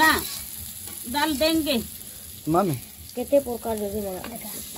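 Vegetables frying and sizzling in a kadhai over a wood fire, a steady high hiss. Short rising and falling voice-like sounds come over it several times and are louder than the frying.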